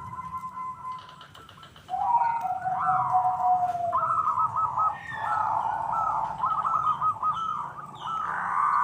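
Zebra doves (perkutut) singing their rapid, warbling cooing phrases over and over, with several calls overlapping and fainter higher chirps of other small birds. After a brief lull about a second in, the cooing starts again louder near the two-second mark.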